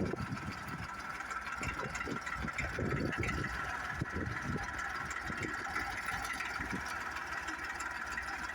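Diesel engine of a tractor-mounted backhoe running steadily, with uneven low thumps.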